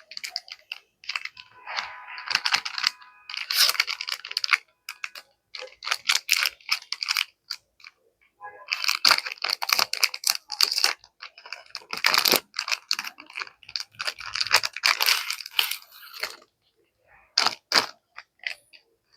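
Paper rustling and crinkling as sticker sheets and journaling papers are handled, in runs of quick crackles broken by short pauses.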